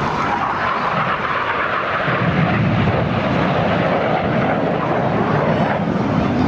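BAE Hawk T1 jets flying past in formation, a steady jet-engine rush that grows louder and deeper about two seconds in.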